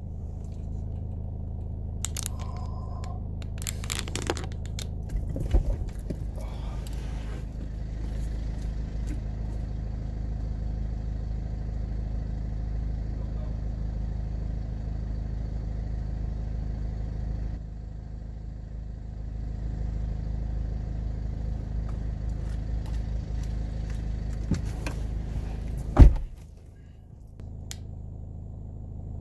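Steady low rumble of an idling vehicle engine, with scattered small knocks and scrapes. A single loud thump comes about 26 seconds in, after which the rumble is briefly quieter.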